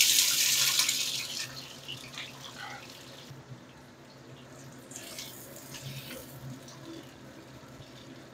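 Boiled jengkol beans tipped into hot oil in a wok: a loud sizzle that fades over about three seconds, then a second swell of sizzling about five seconds in as the beans are stirred with a spatula.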